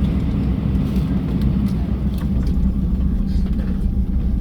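Steady low rumble heard inside the cabin of an Airbus A320 on the ground before takeoff: the aircraft's engine and air-conditioning noise, with a steady hum in it.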